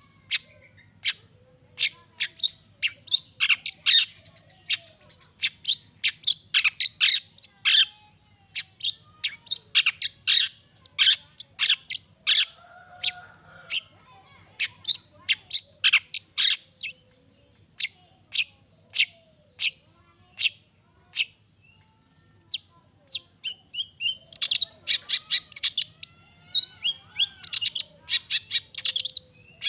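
Long-tailed shrike (cendet) singing: fast runs of short, sharp, high notes several times a second, with a brief lull about three-quarters of the way through before the runs resume.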